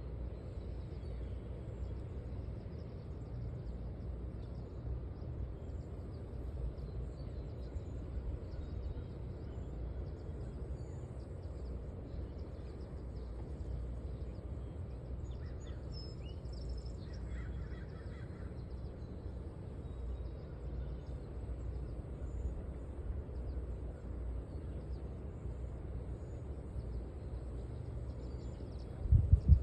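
Outdoor ambience at a river: a steady low rumble with faint bird chirps scattered through it, and one loud thump about a second before the end.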